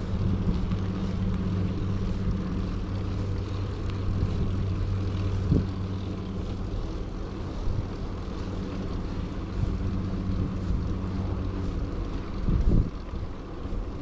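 Steady low drone of a propeller aircraft's engine, fading after about six seconds, under wind noise on the microphone.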